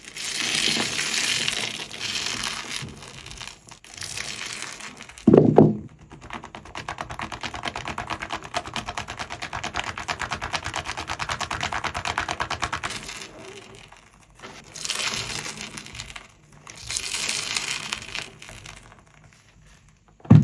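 Soapy sponge being squeezed and rubbed through thick foam, giving crackling, squelching sounds. In the middle it is worked in a long run of fast, even squeezes, and a dull thump comes about five seconds in.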